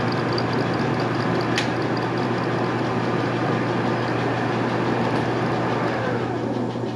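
A machine tool runs with a steady hum while cutting welded-up gear teeth on a starter motor pinion gear. There is one sharp click about a second and a half in, and the cutting noise eases off near the end.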